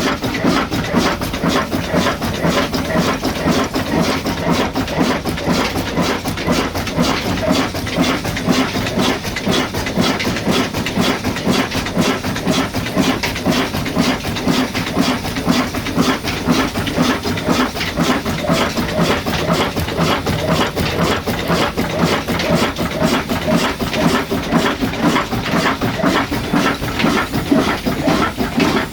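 An engine running steadily, with a fast, even knocking beat that holds the same pace throughout.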